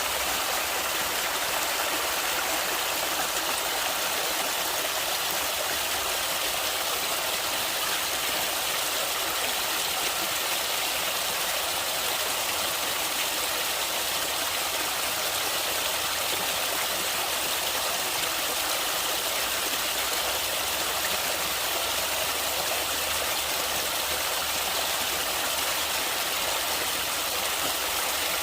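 Flowing water of a stream rushing steadily: an even, unbroken hiss with little low rumble.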